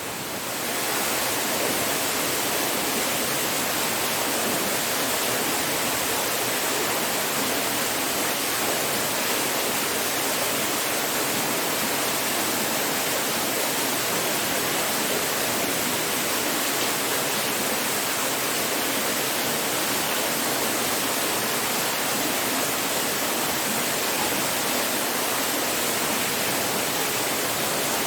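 Waterfall: a steady, unbroken rush of falling water that grows slightly louder about a second in.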